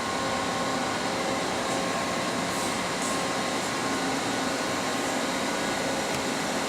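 Steady whirring hum of running machinery, with several faint steady tones over an even noise, holding the same level throughout.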